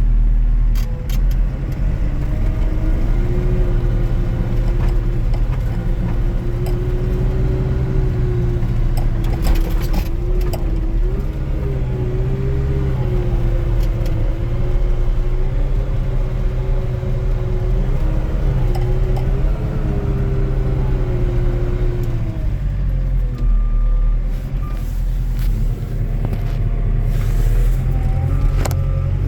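Skid steer engine running steadily, its pitch wavering up and down as the machine works, with a few short knocks around ten seconds in and near the end.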